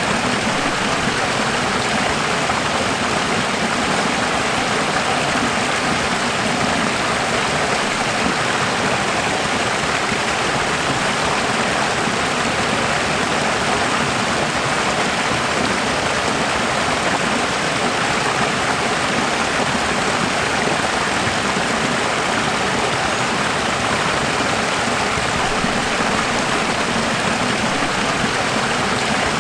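Running water flowing in a steady, unbroken stream, an even hiss that does not change.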